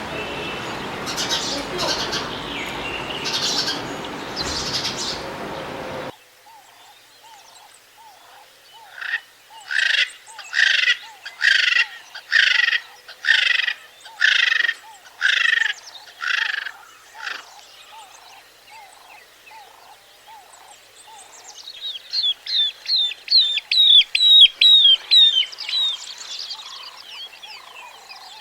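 Birds calling: a run of evenly spaced calls about one a second, over faint chirping, then a quick series of sharp chirps. Before that, a noisy recording with bursts cuts off abruptly.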